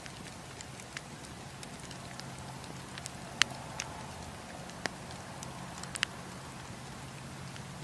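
Wood campfire crackling: about half a dozen sharp pops and snaps of burning wood, the loudest about three and a half seconds in, over a steady low background rush.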